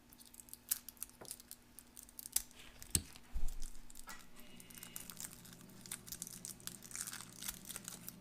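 Old plastic wrapper crinkling and tearing as it is picked and peeled open by hand, in irregular crackles, with a couple of heavier knocks about three seconds in.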